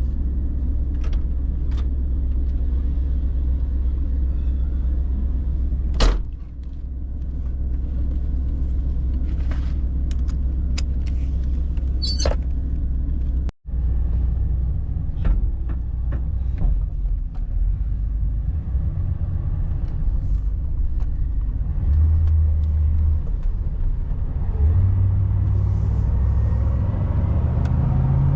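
Steady low rumble of a 1989 Chevy G20 van driving, heard inside the cabin, with a few light clicks and one sharp knock about six seconds in.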